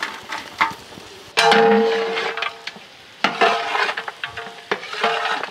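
Boiled mutton pieces going into hot oil with browned onions and sizzling, while a spoon stirs with several metal clanks against the pot. The loudest clank, about a second and a half in, rings briefly.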